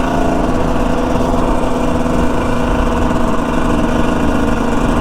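Dirt bike engine running at a steady pitch while riding.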